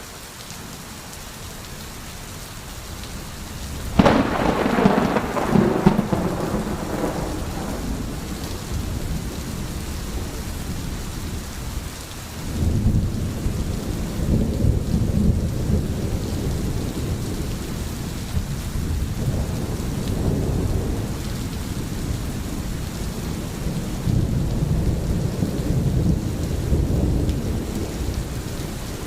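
Steady rain with thunder. A sudden thunderclap about four seconds in rumbles on for a few seconds, and a second long, low rumble of thunder starts about twelve seconds in and rolls on under the rain.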